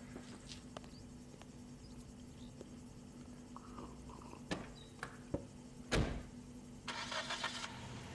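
A faint steady hum with a few light knocks, then a heavier thump about six seconds in. Near the end comes a short rush of noise as a vehicle engine starts and settles into a low idle.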